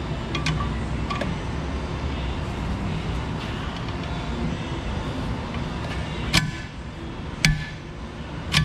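A socket wrench working on a tight 15 mm suspension control-arm bolt: three sharp clanks near the end, over a steady low background rumble.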